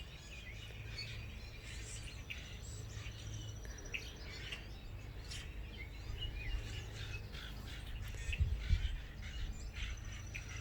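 Several small birds chirping and calling around backyard feeders, with a fast, high trill about two seconds in and again near the end. A steady low hum runs underneath, and a few low bumps come about eight seconds in.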